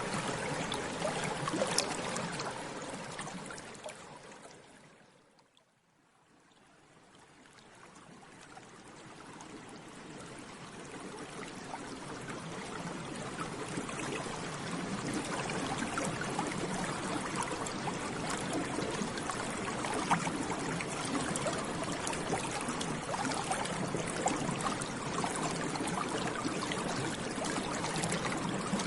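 Bubbles in water bubbling continuously, a dense run of small pops and gurgles. The sound fades out to near silence about six seconds in, then swells back up over several seconds and carries on steadily.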